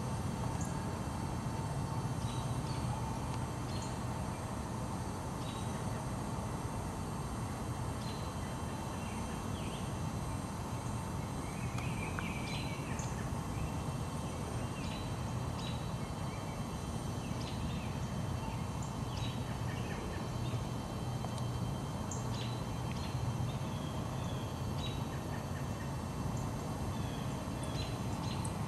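Wild birds chirping now and then in woodland, short scattered calls with a brief trill about twelve seconds in, over steady low background noise.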